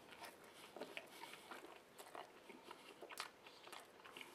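Faint chewing of a mouthful of chili cheeseburger: soft, irregular wet smacks and small clicks of the mouth.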